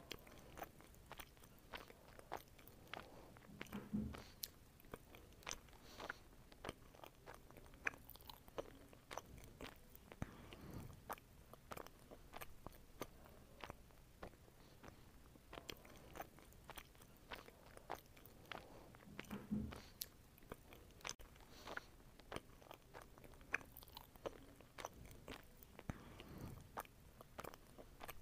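Faint close-up eating sounds: a person biting and chewing soft fruit such as strawberry and loquat. Many short wet mouth clicks and smacks come at irregular intervals throughout.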